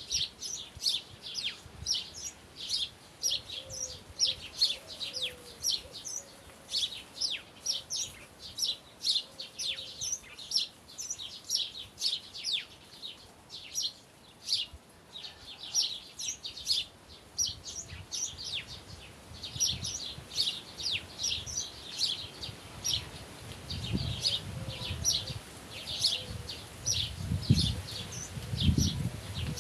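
Many small birds chirping, a dense run of quick, short, high chirps overlapping one another without pause. Low rumbling swells come in over the last few seconds.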